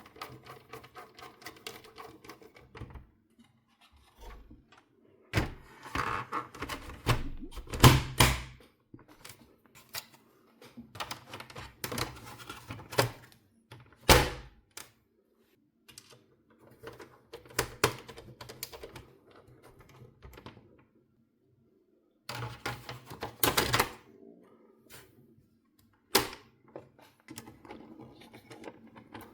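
Clusters of hard clicks, taps and knocks, with pauses between them, from plastic and metal console parts being handled and fitted by hand. The loudest knocks come at about 8 s and 14 s.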